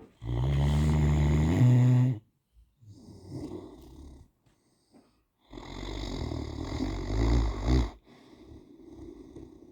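Great Dane snoring in its sleep: two loud, rumbling snores about five seconds apart, each followed by a softer breath.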